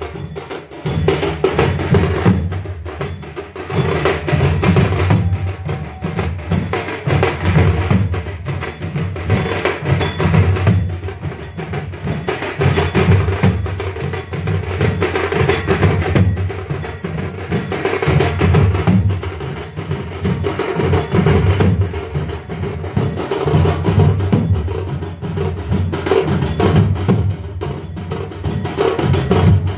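Percussion music: drums with rapid, sharp clicking strokes, swelling and easing in cycles of about two seconds.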